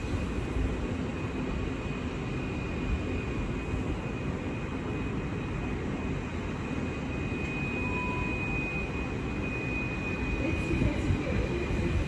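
Great Western Railway Class 802 IET bi-mode train running at the platform: a steady rumble with a thin, high, even whine over it.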